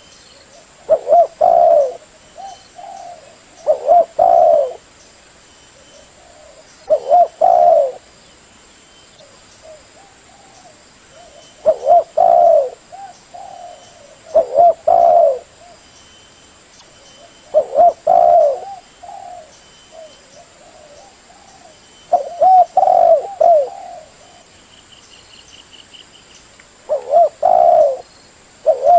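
Spotted dove (Spilopelia chinensis) cooing: short phrases of a few coos, repeated every three to five seconds.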